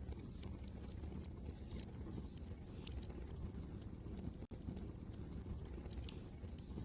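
Wood fire crackling, with irregular sharp pops and snaps over a steady low rumble of wind. The sound cuts out for an instant about two-thirds of the way through.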